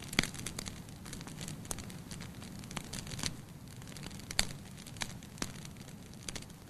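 Wood fire burning in a fireplace: a steady low rush of flame with irregular sharp crackles and pops, the loudest just after the start and about four and a half seconds in.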